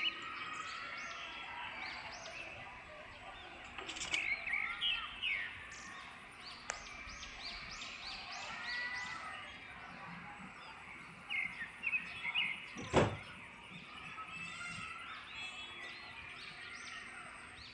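Many small birds chirping in quick, overlapping calls, with one sharp click about two-thirds of the way through.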